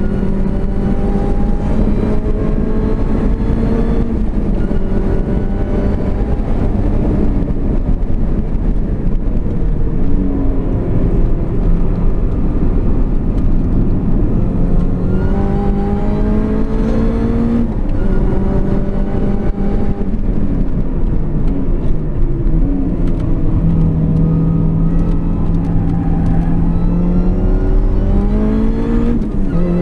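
R53 Mini Cooper S's supercharged 1.6-litre four-cylinder engine heard from inside the cabin while being driven hard on track. Its pitch climbs under acceleration and drops back on gear changes and lifts for corners several times, over a steady low rumble.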